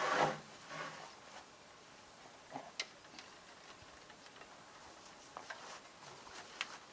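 A short rustling or scraping noise at the start, then a few faint, scattered clicks and light knocks.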